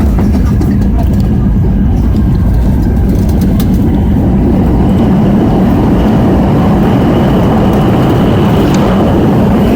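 Airliner cabin noise: the loud, steady rumble of the jet engines and airflow, with a faint higher whine coming in about halfway through.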